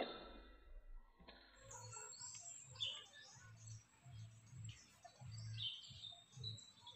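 Faint bird chirps and calls, short and scattered, starting about a second in. Under them a low pulse repeats about once or twice a second.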